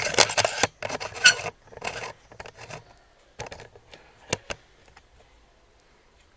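Handling noise: rustling and scraping for the first couple of seconds, then a few scattered clicks, one sharper about four seconds in, before it fades to quiet.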